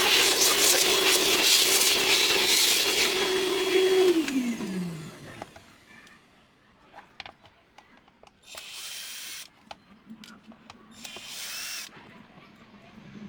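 Small electric power-tool motor running at a steady speed, then released so that it winds down in pitch and stops about four seconds in. Light clicks and two brief hissing bursts follow.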